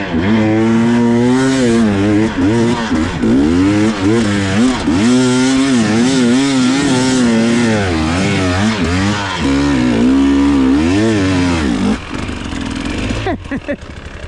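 Dirt bike engine revving hard, its pitch rising and falling over and over as the throttle is worked under load. It drops away about twelve seconds in.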